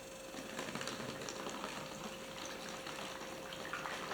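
Hot water running into a jug as it fills, a steady splashing with a faint steady hum underneath.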